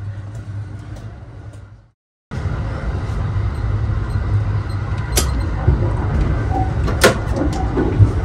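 Steady low rumble of the Sunrise Express sleeper train running, cut off briefly about two seconds in. Two sharp clicks come about five and seven seconds in, the second the loudest, from a compartment door's keypad lock and metal handle being worked as the door is opened.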